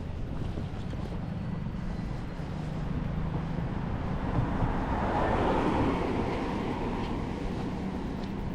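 A motor vehicle passing: a low engine hum with a swell of noise that builds to a peak about five or six seconds in and then fades, over wind rumble on the microphone.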